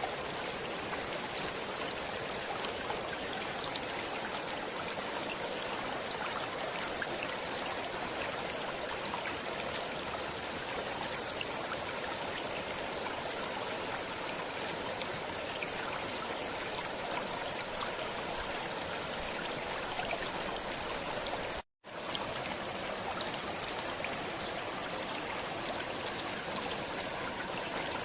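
Stream water flowing steadily, a continuous rushing and trickling, with one split-second dropout to silence about three-quarters of the way through.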